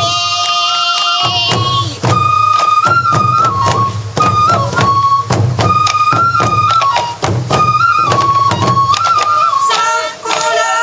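Sansa odori festival music: a bamboo flute plays a stepping melody over massed taiko drums beating a steady, driving rhythm. The drums come in about a second and a half in, after a brief held flute passage.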